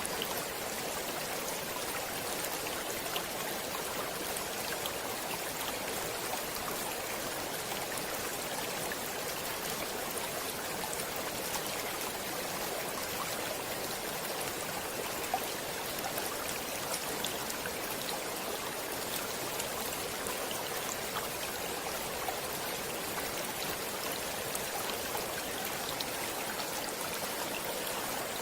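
Flowing stream water, a steady even rush with small splashes and drips scattered through it.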